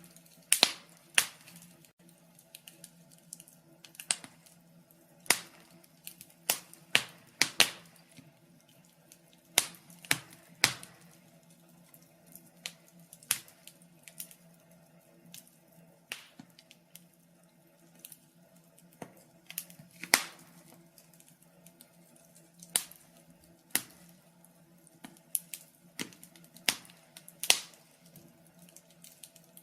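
Wood fire crackling: irregular sharp pops and snaps, a few of them much louder, over a faint steady low hum.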